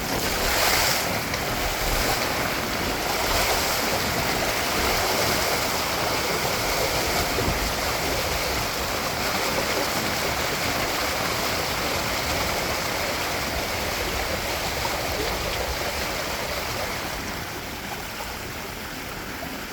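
Water rushing and splashing past the hulls of a Windrider 17 trimaran sailing fast, with wind buffeting the microphone. The rush eases a little near the end.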